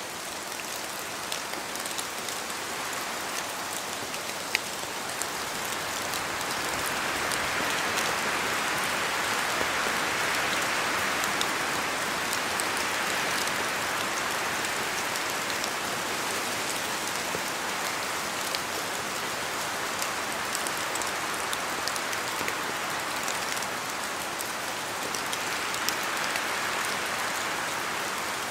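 Steady rain falling in a forest, with individual drops pattering from the trees. The hiss swells louder from about six seconds in and again near the end.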